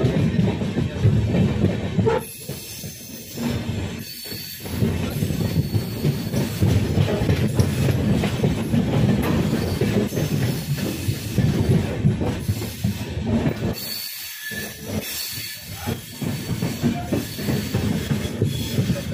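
Humsafar Express passenger train running at speed, heard from an open coach doorway: a steady loud rumble of wheels on the rails, with the level dipping briefly a few times.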